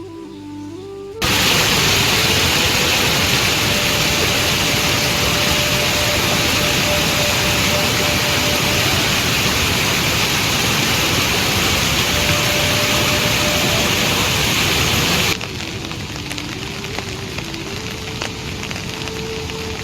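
Heavy rain pouring down, a loud steady hiss that starts abruptly about a second in and cuts off suddenly near the end, leaving lighter rain. A quiet melody of background music runs underneath.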